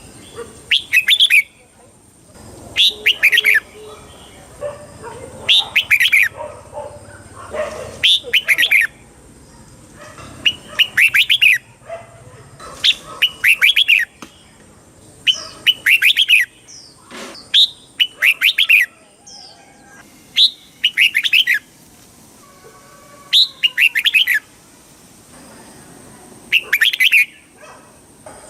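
Red-whiskered bulbul singing short, bright warbling phrases of about a second each, repeated every two to three seconds.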